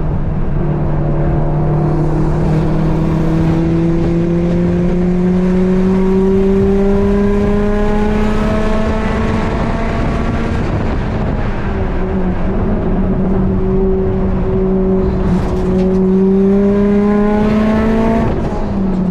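Built 2019 Subaru WRX STI's turbocharged flat-four heard from inside the cabin, pulling hard on track with its pitch climbing slowly for about ten seconds. It eases off, then climbs again, and drops near the end as the car slows into a left-hand turn.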